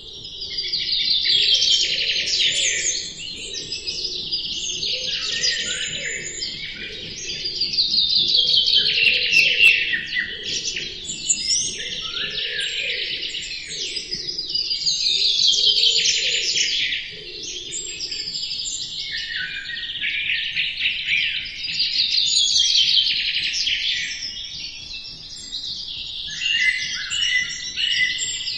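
A dense chorus of many small birds chirping and trilling at once. It swells and fades in waves every five or six seconds.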